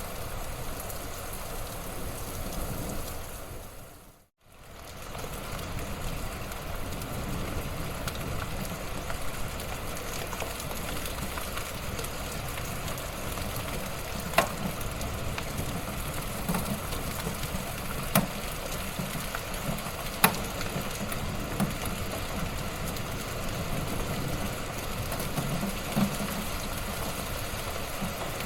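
Wood fire burning in a fireplace: a steady crackle with a few sharp pops near the middle. The sound fades briefly to silence and back about four seconds in.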